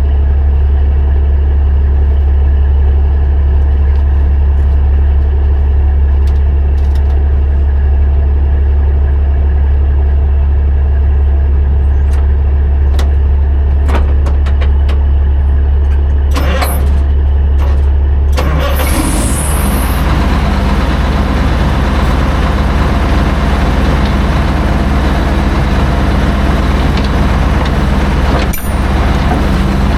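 Large diesel engine idling with a loud, steady low hum. About eighteen seconds in, a louder rushing noise joins it and carries on.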